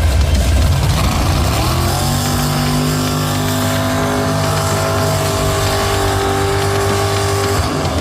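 Mud bog truck's engine rumbling low, then revving up about a second in and held at a steady high pitch at full throttle for several seconds, dropping off just before the end.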